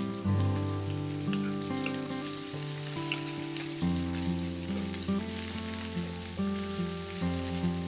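Sliced torch ginger flower, shallots and garlic sizzling as they fry in oil in a wok, stirred with a spatula that gives occasional scrapes. Background music with sustained notes plays along.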